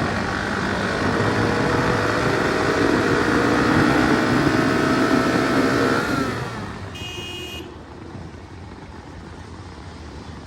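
Motorcycle engine under way, its note climbing slowly as it accelerates. About six seconds in the throttle closes: the pitch drops and the sound falls away much quieter. A brief high-pitched beep follows shortly after.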